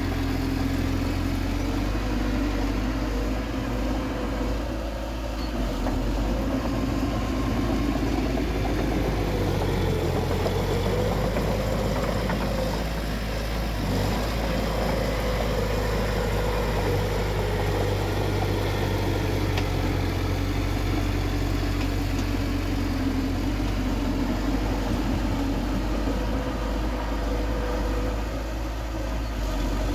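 Bulldozer's diesel engine running steadily. The engine note rises a little partway through, then eases back.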